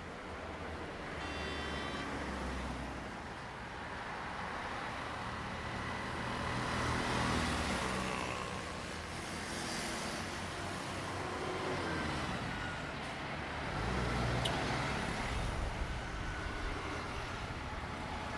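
Engine rumble of passing heavy vehicles, swelling and fading a few times, with a brief high tone near the start and a sharp click about three-quarters of the way through.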